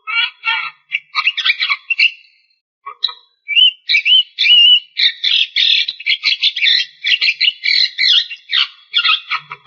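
Javan myna (jalak kebo) singing: fast runs of harsh, chattering notes, a short pause about two seconds in, then a few slurred whistles and a long, dense run of chatter.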